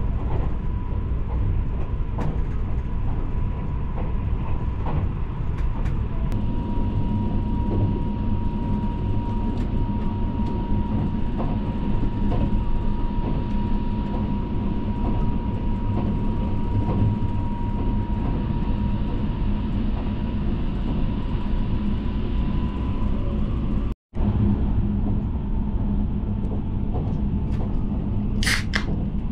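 Inside a running Tobu SPACIA limited express train car: a steady low rumble with faint scattered rail clicks and a thin steady whine through most of it. Near the end, a beer can's tab is pulled open with a short, sharp hiss.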